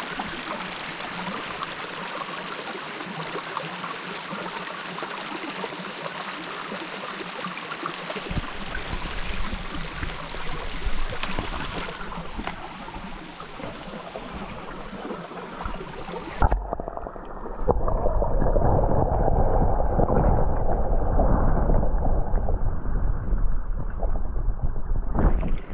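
Running water of a small mountain stream, a steady rush. About sixteen seconds in, the sound suddenly turns muffled and louder, with all the high end gone, as when heard from under the water.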